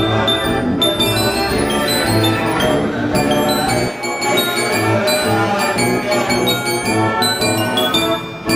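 Wurlitzer 157 band organ playing a tune: pipes with bells ringing over a steady bass-drum beat.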